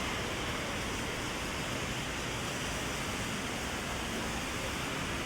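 Heavy rain falling steadily on an umbrella overhead: a dense, even hiss.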